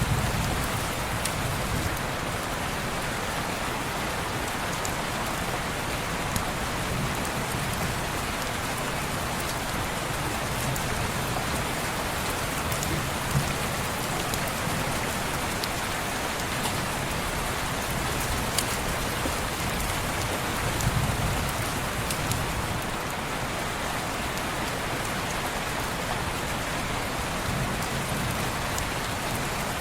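Steady rain falling on window glass, an even hiss with scattered small ticks and pops of single drops, and a few soft low swells.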